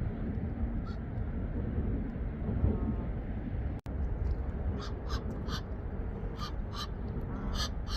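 Birds giving a rapid series of short, harsh calls, two to three a second, starting about halfway through, over a steady low background rumble; the sound cuts out for an instant just before the calls begin.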